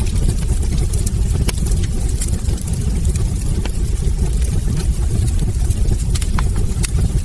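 Wood fire burning in a fireplace: frequent irregular crackles and sharp pops from the burning logs over a steady low rumble of the flames.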